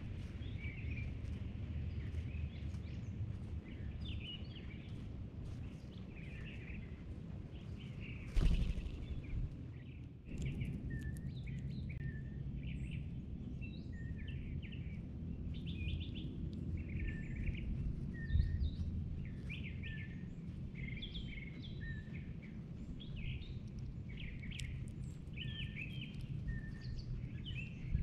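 Birds giving many short, repeated chirps over a steady low rumble of outdoor background noise, with a brief thump about eight seconds in.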